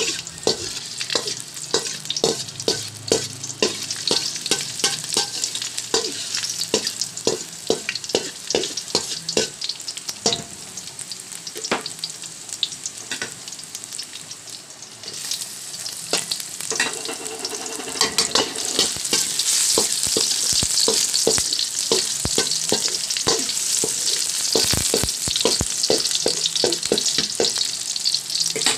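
Chopped garlic and onions frying in oil in a metal wok, sizzling, while a cooking utensil scrapes and taps the pan as they are stirred. The sizzle grows louder about halfway through.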